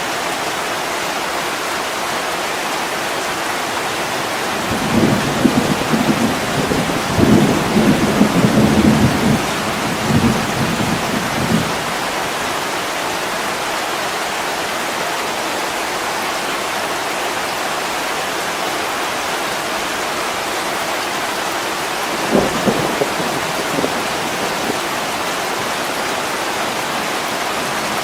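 Steady heavy rain falling, with low rolls of thunder rumbling twice: a longer one about a quarter of the way in and a shorter one about four-fifths of the way through.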